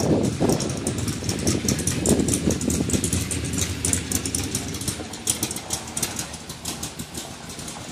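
Shelby Cobra's V8 engine burbling at low speed as the car drives past, surging twice in the first few seconds and then fading as it moves away.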